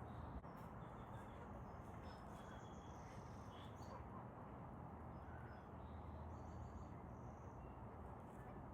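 Faint, short high bird chirps scattered over a steady outdoor background hiss, with one faint click shortly after the start.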